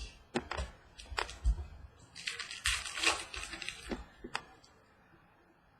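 Trading cards being handled and shuffled through a pack: a few light clicks and taps, then about two seconds of papery rustling and sliding, then two more sharp clicks.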